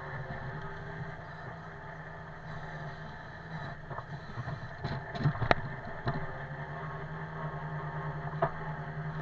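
An engine running steadily at an even speed, with a few sharp knocks and clanks, the loudest about five and a half seconds in and another near the end.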